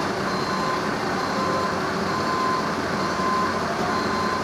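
A vehicle engine running steadily, with a high beep sounding on and off over it, about once a second.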